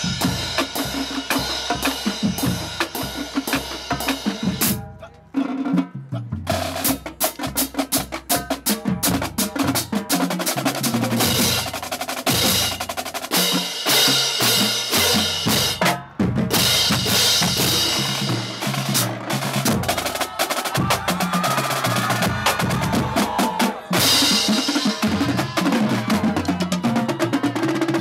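Marching drumline playing a drum-off cadence: rapid snare strokes, rolls and rimshots over bass drums stepping between different pitches. It breaks off briefly about five seconds in and again near sixteen seconds.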